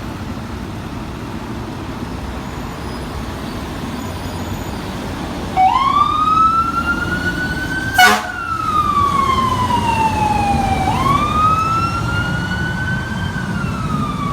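Pierce Arrow XT fire engine passing with its siren in a slow wail: about five seconds of engine and road noise, then the siren rises, falls, and rises and falls again. A brief loud burst, the loudest moment, cuts in about eight seconds in.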